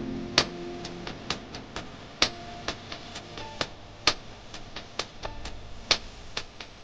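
A series of sharp, unevenly spaced clicks, a few a second, with faint background music.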